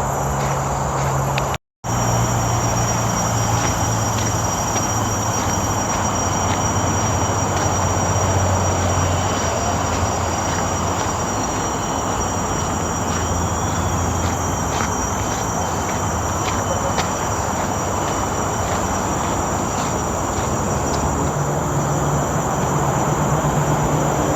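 Steady rumble of road traffic from a nearby main road, with a thin, steady high insect drone above it. The sound cuts out completely for a moment about two seconds in.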